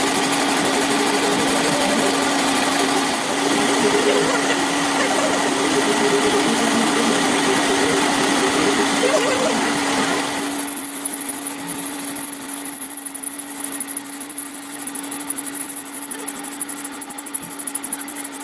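A workshop machine running with a steady hum and a noisy rush; about ten seconds in the rush drops away and a high steady whine sets in over the hum.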